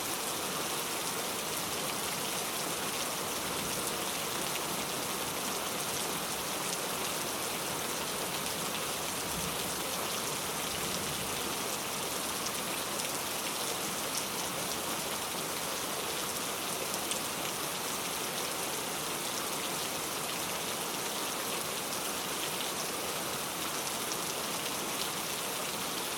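Steady rain falling: an even hiss flecked with the fine patter of drops, unchanging throughout.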